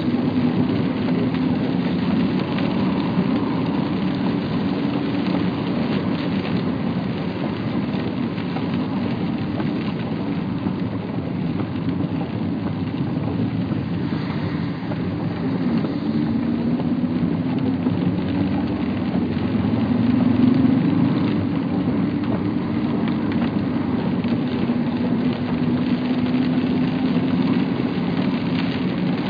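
Steady rain falling during a thunderstorm, with a low continuous rumble underneath, a little louder about twenty seconds in.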